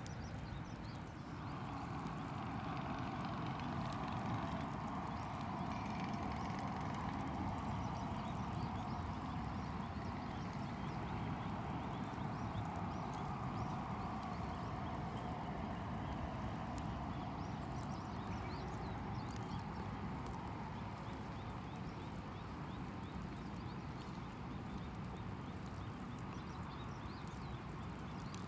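Wood campfire crackling with a steady run of small sharp pops, over a steady simmering sound that sets in a second or two in.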